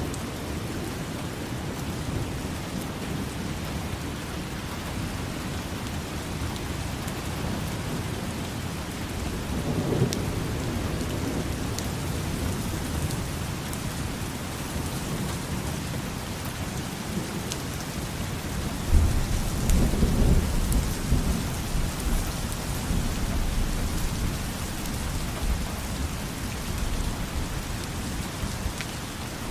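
Steady rain falling, with two low rolls of thunder: a short one about a third of the way in and a louder, longer one about two thirds through.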